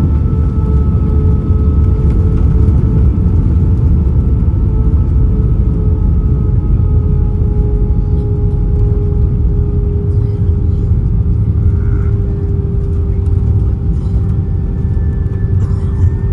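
Airbus A320 cabin noise heard from inside: a heavy, steady low rumble with a few engine tones that slowly fall in pitch as the aircraft rolls on the ground.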